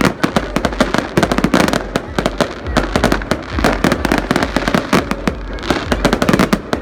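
Fireworks display: a dense, unbroken rapid crackle of many bursts and firecracker pops, close together.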